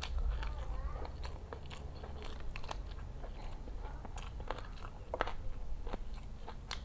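Close-up chewing of a handful of jengkol balado and rice: a run of small wet mouth clicks, with louder ones about five seconds in.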